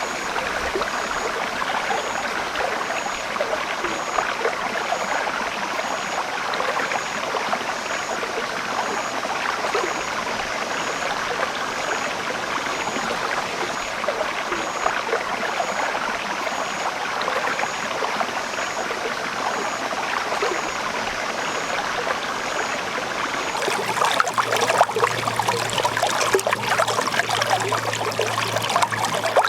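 Water running steadily through a rice-paddy channel. About 24 s in it changes to a closer, splashier trickle with a faint low hum underneath.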